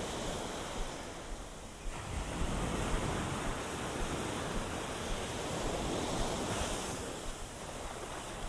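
Ocean waves washing and slapping against a seawall: a steady rush of surf that dips briefly and then surges louder about two seconds in.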